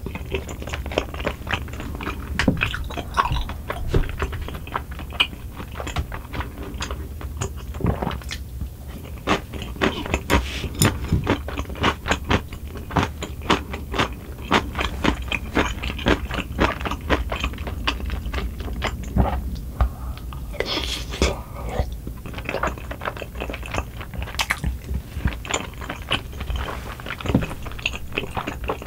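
Close-miked chewing and wet mouth sounds of chewy rice cakes in cream sauce, a dense run of small clicks and smacks.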